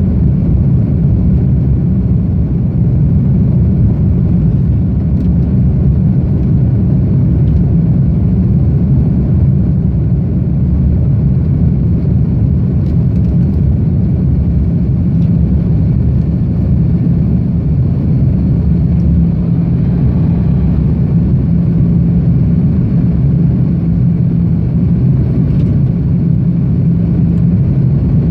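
Airbus A330-200's General Electric CF6-80E1 turbofans running at high takeoff or climb thrust, heard from inside the passenger cabin as a loud, steady low drone with airflow noise. It holds level throughout, with the deepest rumble easing slightly a little past the middle.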